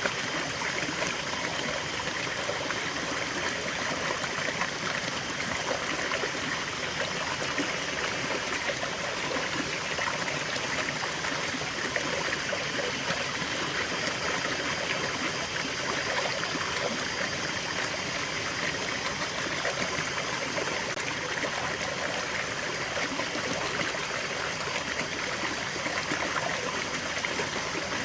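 Small stream of water flowing and trickling steadily, a constant splashing babble.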